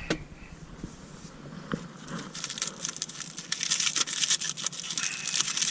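Dry crinkling and rustling of something being handled while food is readied for cooking, quiet at first, then busier with quick crackly ticks from about two seconds in.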